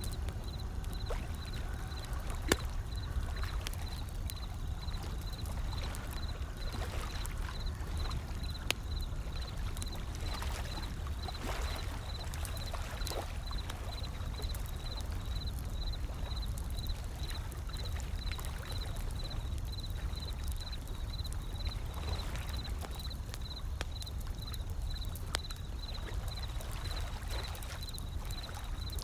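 Wood fire crackling with occasional sharp pops, over a steady low rumble and slow swells of ocean waves washing in.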